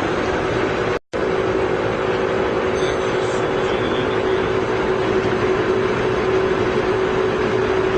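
Poreba TCG 160 engine lathe running under power: a steady mechanical hum with a constant gear whine over the noise of the drive. The sound cuts out completely for an instant about a second in, then resumes unchanged.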